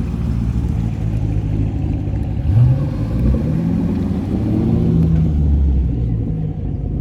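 Car engine rumbling, with a short rev rising in pitch about two and a half seconds in.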